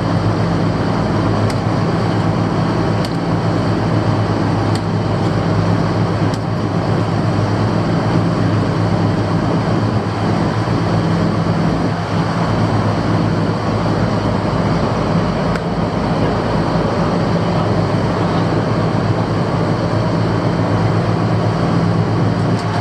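Fishing boat's engine running steadily: a constant low drone with a fast low pulsing beneath it and a steady rushing noise over it.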